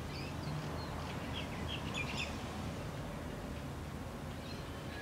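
Small birds chirping: a quick run of short calls in the first couple of seconds and a few fainter ones near the end, over a steady low background hum.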